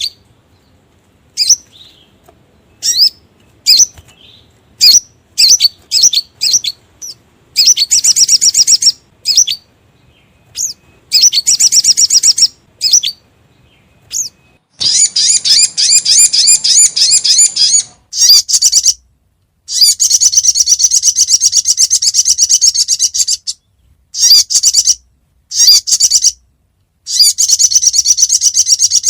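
Sogon (sogok ontong) sunbird calls played as a trapper's lure: sharp high chirps about a second apart at first, then fast high trills lasting one to three seconds each, the longest in the second half.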